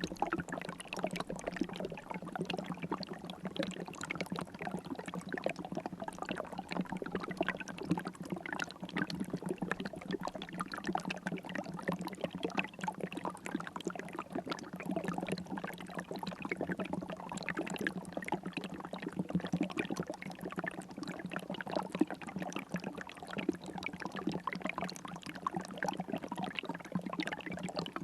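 River water flowing steadily, a continuous trickling rush with many small splashes.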